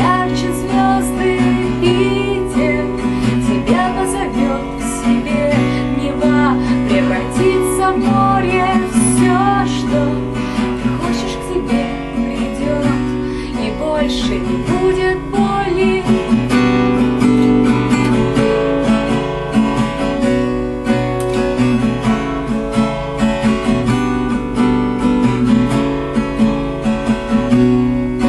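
Song music led by a strummed acoustic guitar, playing a passage without words.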